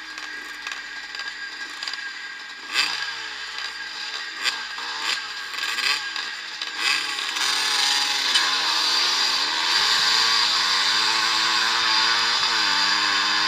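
Several vintage motocross bikes running with wavering revs. From about seven seconds in, many engines are at high revs together and it gets much louder.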